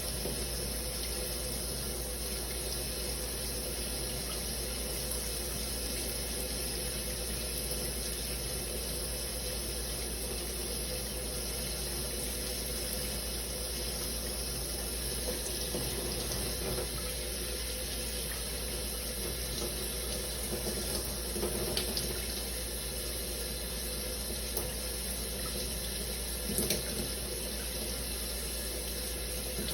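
Shower running: a steady spray of water falling, with one brief click near the end.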